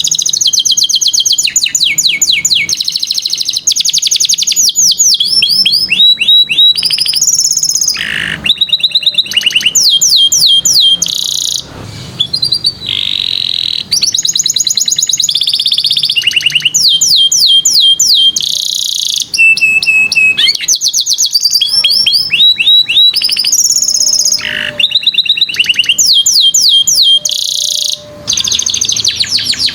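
Domestic canary singing a long, loud song of rapid trills: each phrase repeats one high note many times in quick succession, often a downward-sweeping note, then switches to a new note. There are brief pauses about twelve seconds in and near the end.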